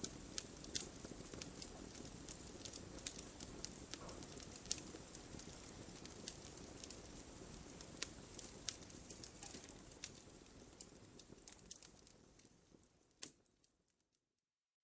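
Wood fire crackling: frequent sharp pops and snaps over a steady low rush of flames. The sound fades away over the last few seconds, with one last pop, into silence.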